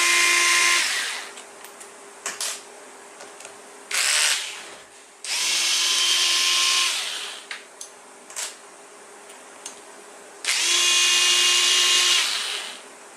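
Electric screwdriver running in short bursts, three runs of about two seconds and one brief one, each a steady whine, with small clicks of handling in between.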